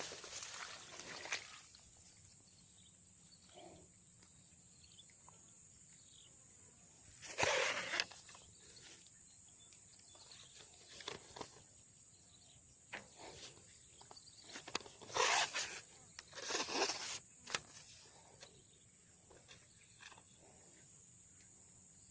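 Quiet outdoor ambience with a faint steady high-pitched whine, broken by a few short rustling noises, about seven seconds in and twice around fifteen to seventeen seconds.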